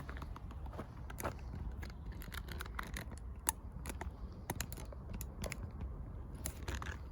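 Footsteps on a forest path, with irregular crunching and crackling clicks over a steady low rumble.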